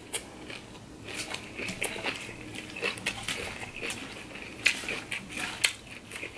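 Crunchy chewing of salad greens, with a metal fork clicking and scraping against a glass baking dish as it picks up more salad; a couple of sharper clinks near the end.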